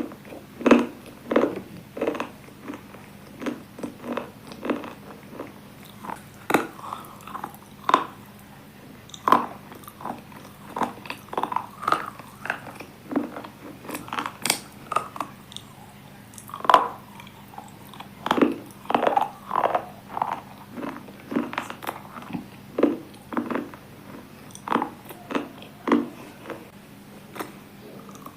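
A person biting and chewing hard, brittle pieces of slate-like material, sharp crunches coming irregularly about once or twice a second.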